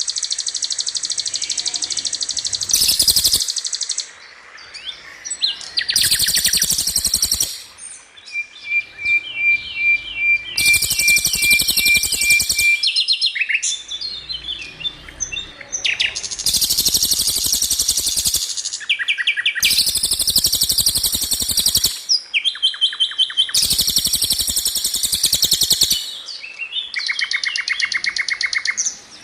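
Songbird song played as a masteran (tutoring track) for white-rumped shama: loud, rapid rattling trills ('rol tembak'), each lasting one to three seconds and coming every three to four seconds. A run of clear, evenly spaced piping notes sounds about eight seconds in.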